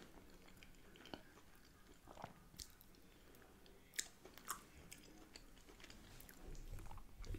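Faint, close chewing and wet mouth sounds of someone eating soft pie, mash and mushy peas. A few short clicks are scattered through it, the sharpest about four seconds in.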